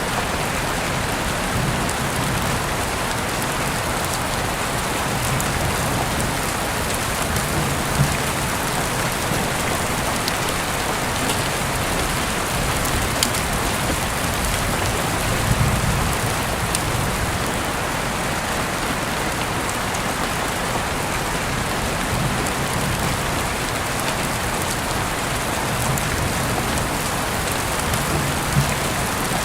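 Heavy rain falling steadily, heard through an open window, with scattered sharp drip ticks. There is a soft low rumble about halfway through.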